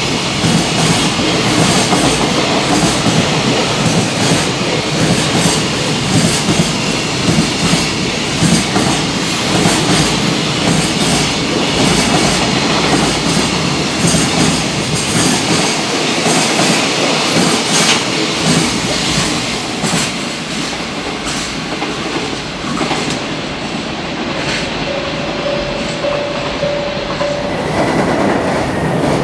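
A long freight train of container flatcars passes at speed, its wheels clattering over the rail joints in a rapid, continuous rhythm. A brief steady whine rises out of the clatter a few seconds before the end.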